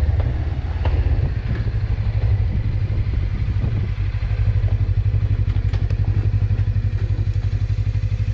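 Suzuki V-Strom 250's parallel-twin engine running steadily with a low, even pulsing beat, a little louder from about halfway through.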